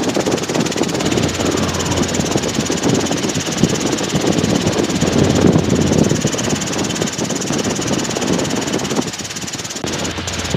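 Robinson R22 helicopter in flight: its piston engine and rotor running steadily.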